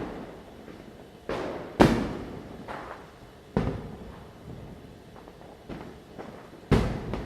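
Firecrackers going off at random, several sharp bangs that each echo away. The loudest comes about two seconds in and another loud one near the end, with fainter pops and distant bangs between.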